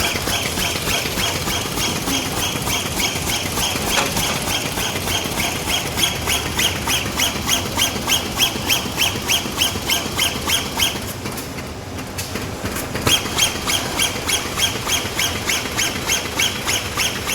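Automatic PE T-shirt bag making machine running in production, its sealing and cutting cycle repeating in a fast, even rhythm of about three strokes a second. The rhythm stops for about two seconds roughly two-thirds of the way through, then picks up again.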